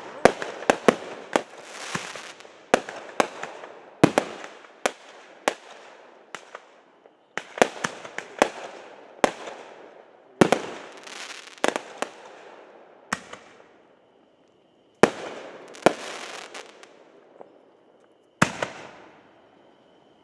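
Fireworks going off: a rapid run of sharp bangs and cracks, many trailing off in a fading crackle, with a short lull about two-thirds through before the bangs resume.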